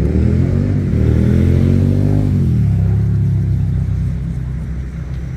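A motor vehicle's engine passing close by. It revs up for about two seconds, then drops back and runs on in a steady lower drone.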